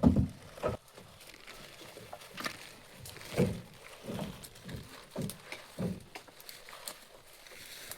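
Irregular dull thumps and knocks: a loud cluster at the start, then about six more, spaced unevenly, in the middle.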